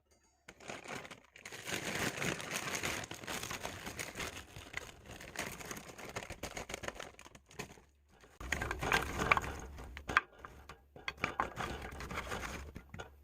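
Plastic bag of frozen broccoli crinkling and crackling as it is handled and opened, in dense rustling spells with brief pauses.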